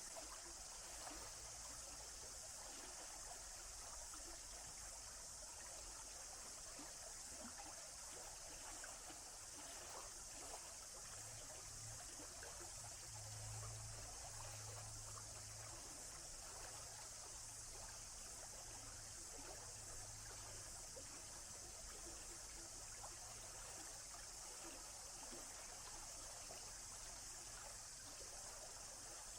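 Running water of a forest stream, a steady faint rushing and trickling.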